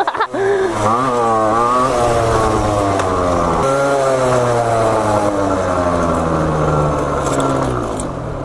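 Small two-stroke dirt bike engine revved in a few quick blips, then held with its pitch falling slowly for several seconds.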